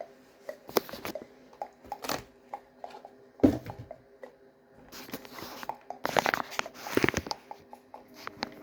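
Hands handling craft materials: irregular crinkling, rustling and small clicks, with a sharp knock about three and a half seconds in and a busier spell of rustling near the end.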